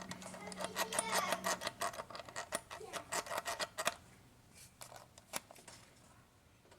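Rapid clicking and clattering for about four seconds, then a few scattered clicks, as the rear valve cover of a 3.9L V6 is worked loose and lifted off the cylinder head by hand.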